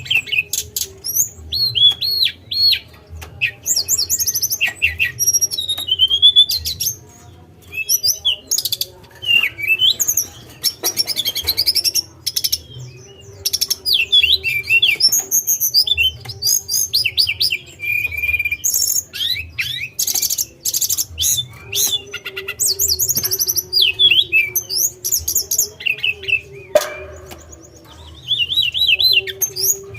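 A tledekan songbird singing a fast, varied song of chirps, trills and short whistled notes, with brief pauses, over a faint steady hum.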